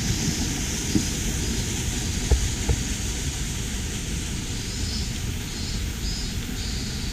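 Wind rumbling on the microphone over a steady rushing hiss, with a few faint footsteps on the trail.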